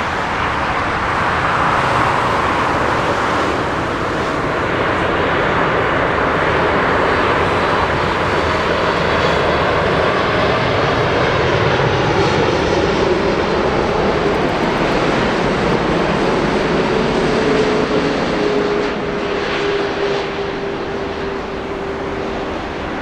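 Jet airliner's engines running loud and steady as the aircraft passes, a dense rush of noise with a steady whine appearing in the second half. The sound eases off slightly near the end.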